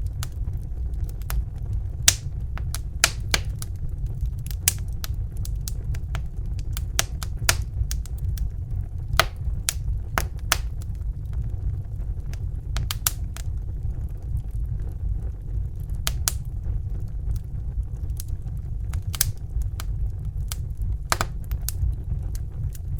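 Crackling fire: irregular sharp snaps and pops, a few a second, over a steady low rumble.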